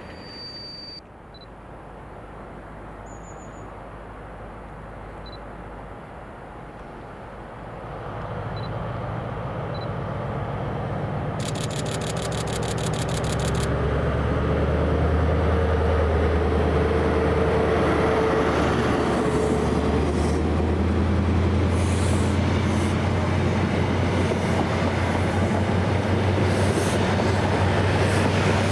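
A train approaching the station and running past, its low rumble building from about eight seconds in and staying loud and steady through the rest. A brief rapid high rattle or buzz is heard about halfway through.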